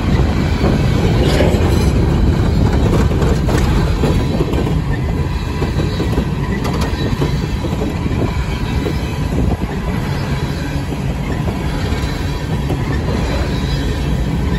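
Empty steel coal hopper cars of a freight train rolling past close by: a steady rumble and rattle of wheels on the rails, with a faint steady high wheel squeal.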